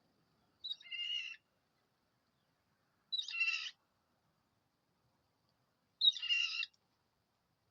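Crow calling three times, each a drawn-out harsh caw about three seconds apart, every call opening with a short higher note.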